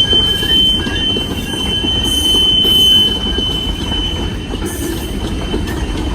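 Green Mountain Railroad train rolling past, its cars rumbling steadily on the rails with a single high-pitched wheel squeal that weakens after about four seconds.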